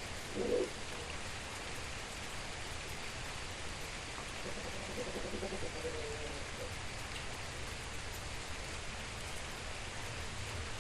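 Steady rain falling, an even hiss, with a brief faint pitched sound about half a second in and again in the middle.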